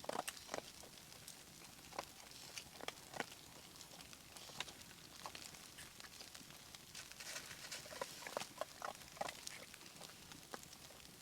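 Campfire crackling: irregular small pops and snaps over a faint hiss.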